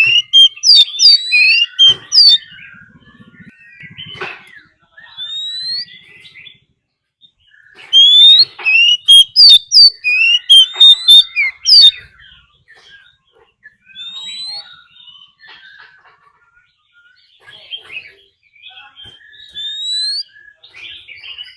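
Oriental magpie-robin singing its loud territorial fighting song: two bursts of rapid, varied whistles and chirps, with quieter rising whistled notes in the gaps.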